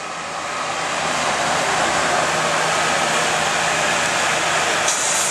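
Diesel farm tractor at full throttle pulling the sled in a tractor pull: a loud, steady rush of engine noise, with a brighter hiss coming in near the end.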